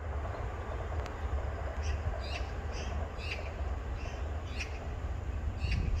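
A bird calling over and over in short, high chirps, roughly two a second, starting about two seconds in, over a steady low rumble.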